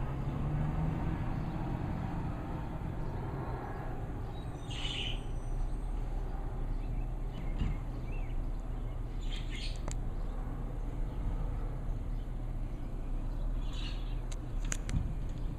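Garbage truck's diesel engine running at a steady low rumble, with three short high chirps a few seconds apart and a couple of sharp clicks near the end.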